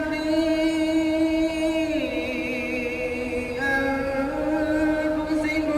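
Chant-like vocal music: a voice holding long, drawn-out notes that step down in pitch about two seconds in and shift again a little later.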